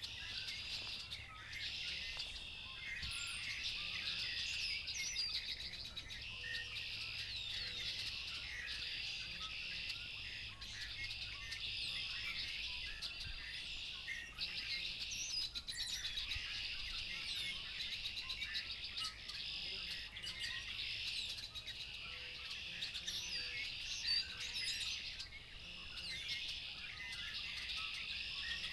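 Chorus of many songbirds singing at once, led by red-winged blackbirds: a dense, unbroken chatter of chirps, trills and short whistled glides.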